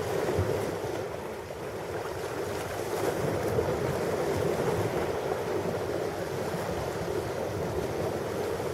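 Ocean surf: a steady wash of waves breaking, swelling slightly a few seconds in.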